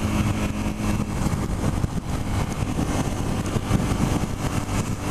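2007 Suzuki SV650's V-twin engine with a full Yoshimura exhaust, running steadily with the bike under way at around 60 mph, under a steady rush of wind noise.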